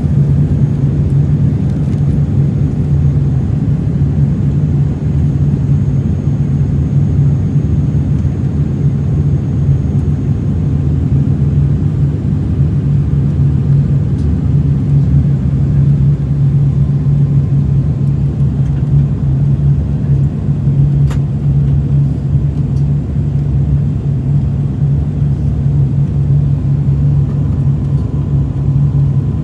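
Aircraft in flight: a steady, loud, low engine drone that holds unchanged throughout.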